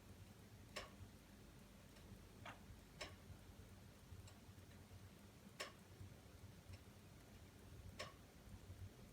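Wood fire in a fireplace crackling faintly: sparse, irregularly spaced sharp pops, about seven of them, over a low steady background noise.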